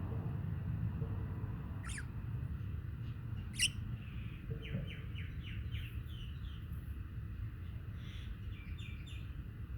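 Budgerigars chirping: single sharp chirps, then a quick run of short falling chirps in the middle, and a few more near the end, over a steady low rumble.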